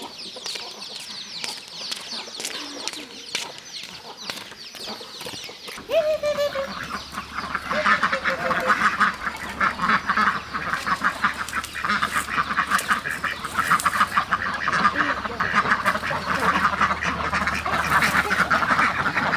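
Farm poultry calling, first with many short high calls, then from about six seconds in a flock of ducks quacking, many at once and steadily, over a low hum.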